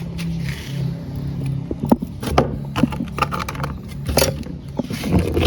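Rustling, scraping and clicking as hands search through leaf litter and pick up land snails, with a low steady hum under the first second or so.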